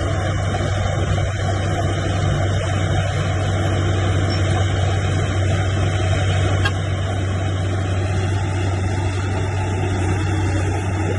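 Heavy diesel engine of earthmoving machinery running steadily with a deep, constant hum, easing slightly about two-thirds of the way in.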